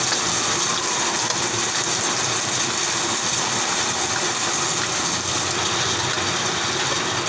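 Steady hiss of heavy rain, with a faint low hum underneath.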